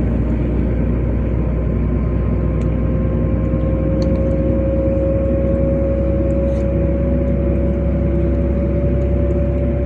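Inside a LiAZ 5292.65 low-floor city bus under way: steady low engine and road rumble, with a drivetrain whine that slowly rises in pitch as the bus gathers speed. A few faint rattles can be heard.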